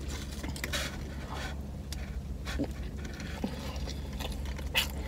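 Close-up eating sounds: a person biting into and chewing a sub sandwich, with scattered short wet mouth clicks and crackles. A low steady hum runs underneath.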